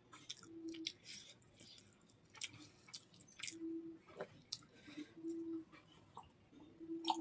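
Close-up chewing with wet mouth clicks and smacks while eating rice and curry by hand, with several brief low hums between bites. About six seconds in comes a sip of water from a glass.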